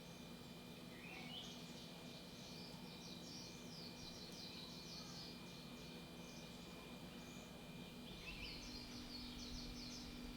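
Faint bird calls: a rising note about a second in and again near the end, each followed by a quick run of repeated chirps, over a steady high-pitched hum.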